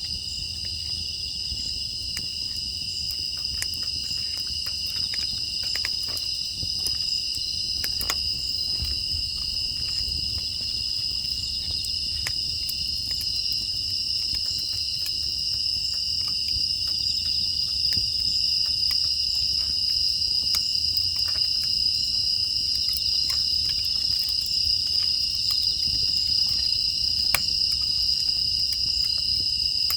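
A steady chorus of grass insects such as crickets trilling on two high pitches, with scattered sharp crackles and pops from a wood fire burning in a firebox.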